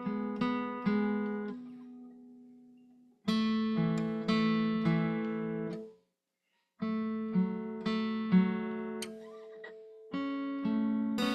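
Acoustic guitar in standard tuning strummed in short repeated phrases, the chord shapes fretted only on the third and fourth strings with the other strings ringing open. The playing lets a chord ring out and stops briefly about three seconds in and again about six seconds in, then starts again each time.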